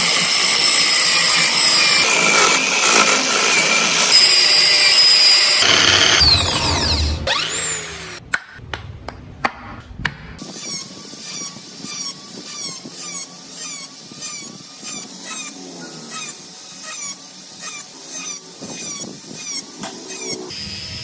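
A power tool working wood runs loud and steady, then stops about six seconds in. A few sharp clicks follow, then a quieter high whine that wavers in a regular repeating pattern.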